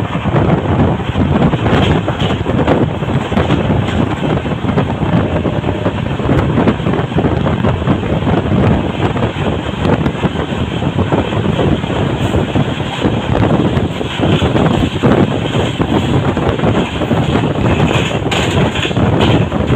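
Wind buffeting the microphone over the steady running noise of an express passenger train's coaches, wheels rumbling on the rails at speed, heard from an open door of the train.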